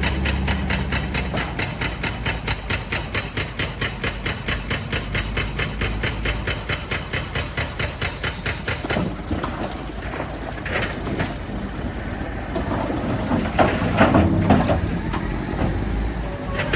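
Heavy machinery working: a rapid, even clatter of about five strokes a second for the first half, then irregular knocking and grinding with a cluster of louder bangs near the end.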